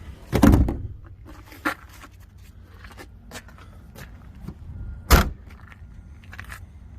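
Clunks and clicks of a minivan's rear seat and body hardware being handled. There is a heavy thud about half a second in, and a sharp, loud slam just after five seconds.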